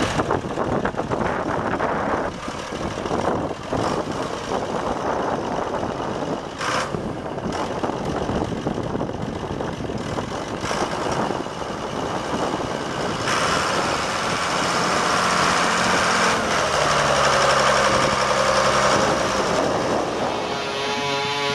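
Tractor-pulling tractor's engine running hard and loud without a break, growing stronger about two-thirds of the way through. Near the end a steady pitched tone with many even overtones joins it.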